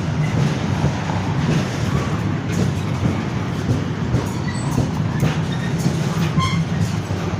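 Freight train hauled by a Class 70 diesel locomotive passing at close range: a steady rumble of wagons on the rails, with a few clicks and a brief wheel squeal about six and a half seconds in.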